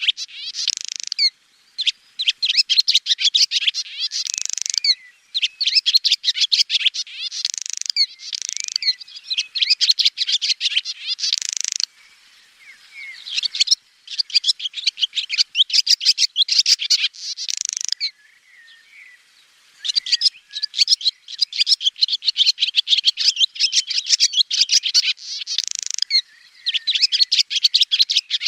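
Swallow twittering: rapid, high chirps run together in phrases of one to three seconds with short pauses between, falling quieter for a few seconds twice along the way.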